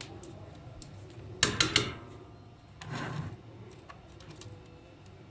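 Hard objects clicking sharply together three or four times in quick succession about one and a half seconds in, then a short scraping rub about a second later.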